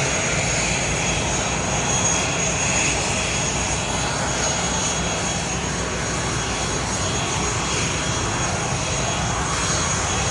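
Airplane engines running with a steady rushing noise and a thin high whine that holds level throughout.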